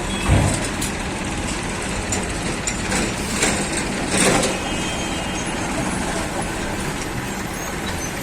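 Diesel engine of a JCB backhoe loader running steadily under work, with a few louder noisy surges about three and four seconds in.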